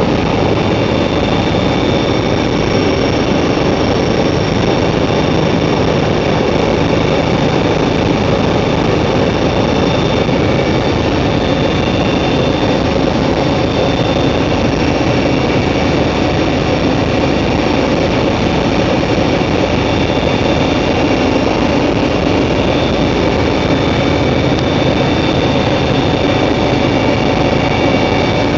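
Helicopter running steadily in flight: a high turbine whine over a dense, unbroken rumble of engine and rotor.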